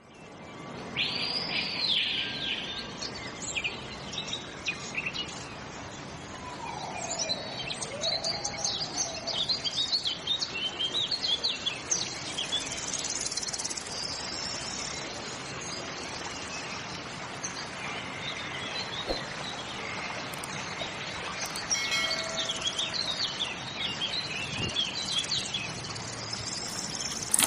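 Several birds chirping and singing, with short warbling calls over a steady background hiss.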